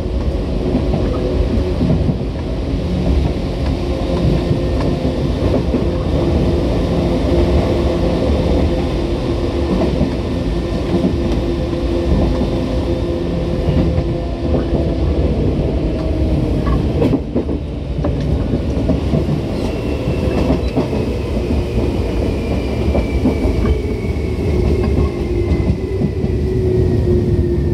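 Tokyu 8500 series electric train running: a steady rumble of wheels on rail with faint clicks, under a motor and gear whine that slowly sinks in pitch. From about two-thirds through, a higher whine falls steadily as the train slows.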